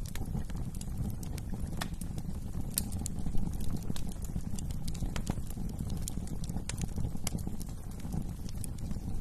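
Wood fire crackling in a fireplace: scattered sharp pops and snaps over a steady low rumble of the flames, with one louder pop a little over three seconds in.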